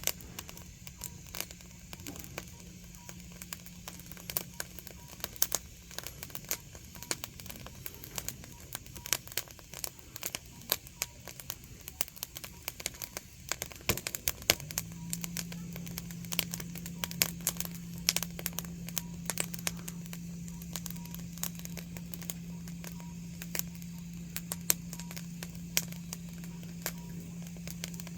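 Burning firewood crackling and popping in quick, irregular snaps, over a low steady hum that grows louder about halfway through.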